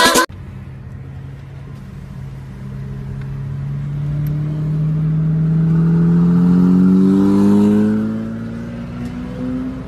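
Lamborghini Murciélago V12 running low, then accelerating hard, its note climbing steadily in pitch and getting louder for about five seconds before falling away about eight seconds in. Heard from inside a following car.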